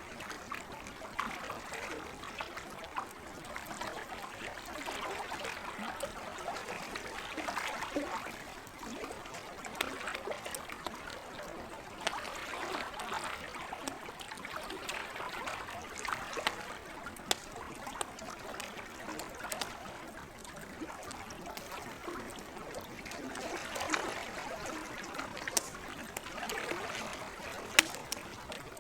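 Lake water lapping and trickling, rising and falling in swells every few seconds, with a campfire crackling over it in scattered sharp pops, one louder pop near the end.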